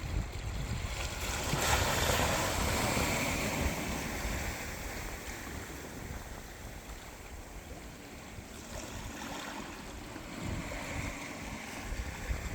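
Atlantic Ocean waves breaking and washing on the shore. A wave surges about two seconds in and slowly fades, and another builds near the end, with a low rumble underneath.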